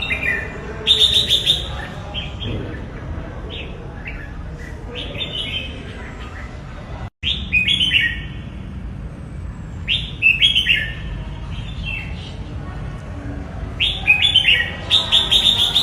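Red-whiskered bulbul singing short, bright, quick phrases in clusters every few seconds, over a steady low background noise.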